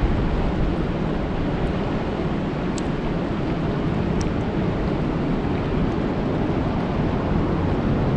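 Steady rain falling on a lake: a dense, even hiss with a heavy low rumble underneath and a couple of faint ticks.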